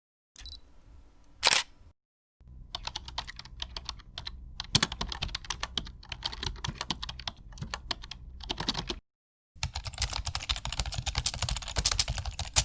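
Rapid, irregular clicking in two long runs with a short break between them, after a single sharper click about a second and a half in.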